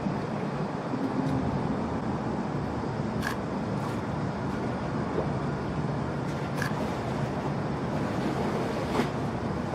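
Steady low outdoor rumble with a handful of sharp single camera-shutter clicks, about three seconds in, near four, near seven and about nine seconds in.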